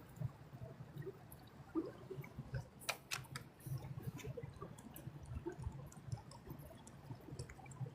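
Footsteps on a leaf-strewn trail: irregular light crackles and clicks over soft low thuds, with a brief run of sharper clicks about three seconds in.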